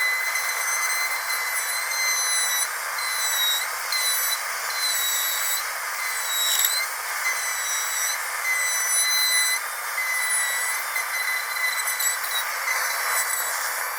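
Dentist's high-speed drill whining at a steady high pitch over a steady hiss, the pitch dipping briefly a few times.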